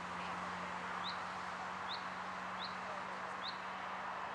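A small bird repeating a short, high chirp a bit more than once a second, over a steady outdoor hiss.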